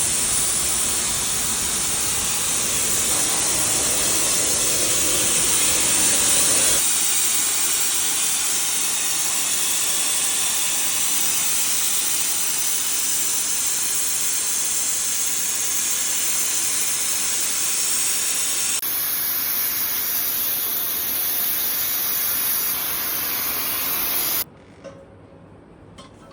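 Loud, steady hiss of liquid nitrogen being transferred, with cold nitrogen gas rushing and venting through the hose and valves. The hiss shifts abruptly twice and drops away sharply near the end, leaving a couple of faint knocks.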